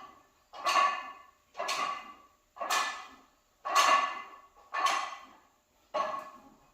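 A man forcefully exhaling and grunting with each rep of a close-grip bench press, about once a second, each breath starting sharply and trailing off, as he pushes a set to failure.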